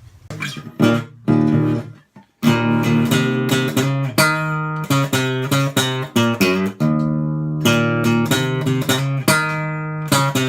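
Background music: strummed and plucked acoustic guitar, cutting out briefly about two seconds in, then continuing with notes struck in quick succession.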